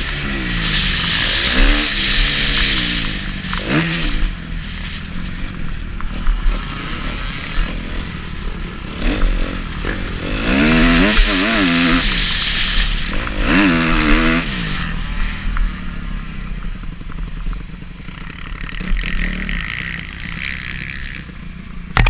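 Motocross bike engine revving up and dropping back in several bursts of throttle, over a steady hissing rush of noise.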